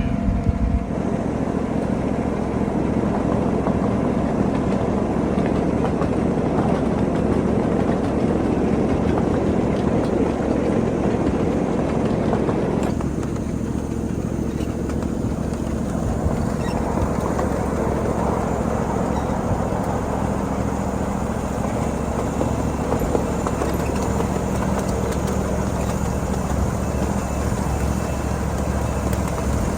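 Steady running of a 7.5-inch gauge ride-on miniature train's locomotive, a continuous low mechanical drone. About halfway through, the higher hiss and rattle fall away and the low drone carries on.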